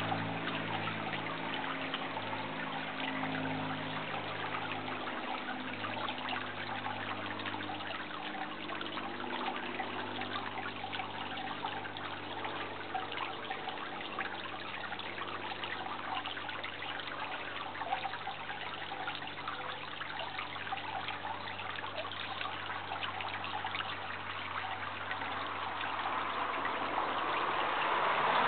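Steady running, trickling water. A low hum fades away over the first five seconds or so.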